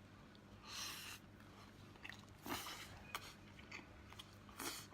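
A person chewing food close to the microphone, with short wet mouth noises about a second in, halfway through and near the end, and small clicks between them.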